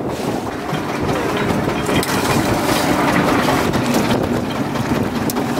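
Strong wind buffeting the microphone over a small fishing boat's running engine, with scattered knocks and clatter of gear as crab pots are hauled in.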